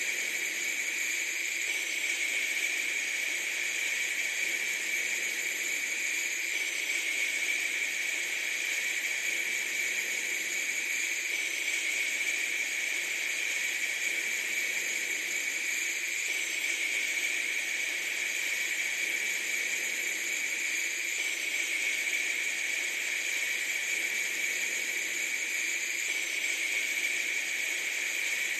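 A steady hiss, strongest in the upper range, with a faint pattern that recurs about every five seconds.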